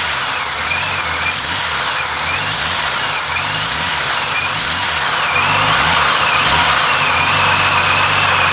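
A 1989 Jeep Cherokee's 4.0-litre straight-six running steadily just after a cold start in freezing weather. A high thin whine above the engine note wavers up and down in pitch, then holds steady for the last few seconds.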